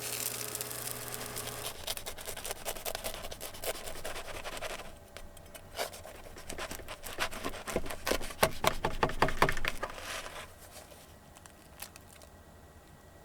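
Tortilla cooking in a frying pan: dense irregular crackling and scraping with many small ticks, busiest shortly before it dies down about ten seconds in.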